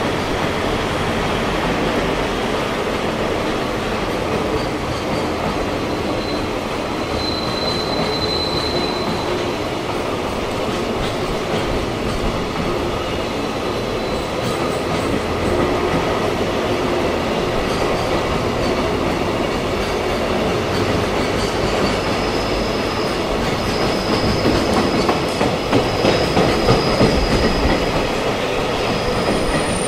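JR Freight container train's wagons rolling past on the rails, a steady heavy rumble of wheels. A faint high wheel squeal comes in about seven seconds in and again through the last third, where the rumble grows a little louder.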